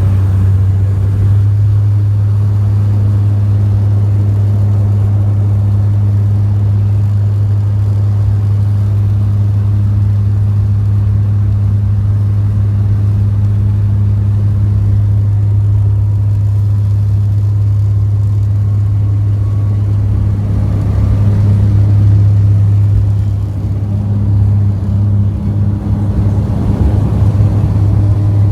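Bombardier Q400's six-bladed propellers and turboprop engines heard inside the passenger cabin: a loud, steady low drone with a deep hum, wavering a little near the end.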